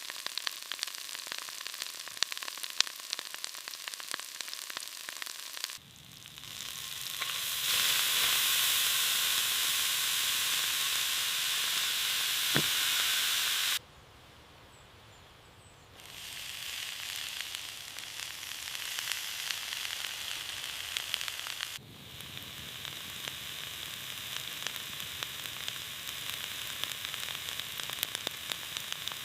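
Food sizzling and frying in a hot pan over a campfire, a steady hiss with small crackles and spatters. It changes abruptly several times: louder for a few seconds in the middle, then briefly much quieter before the sizzling returns.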